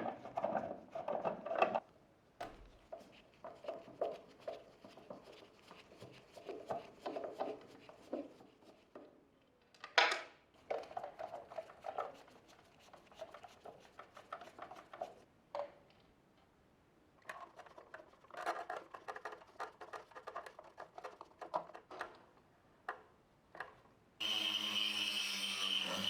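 Plastic parts and screws of a Nespresso DeLonghi coffee machine being handled and worked during disassembly: irregular clicks, taps and scrapes. About two seconds before the end a steady drone starts abruptly.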